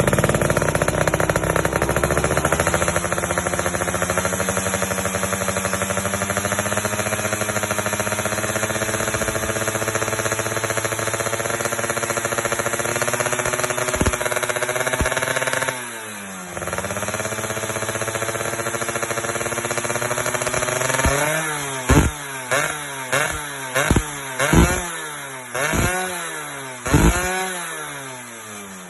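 Yamaha F1ZR two-stroke engine running through an aftermarket SR-style racing exhaust with a heat shield. It holds a steady raised idle for about fifteen seconds and dips briefly. In the last third it is revved in a run of about eight quick throttle blips, each rising and falling, then settles.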